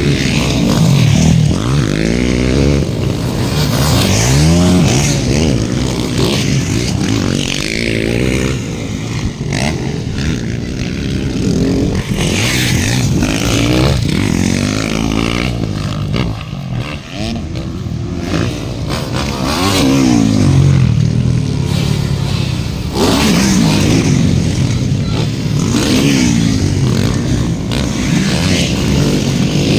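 Motocross dirt bikes racing, their engines revving hard and rising and falling in pitch again and again as the riders accelerate, shift and back off around the track.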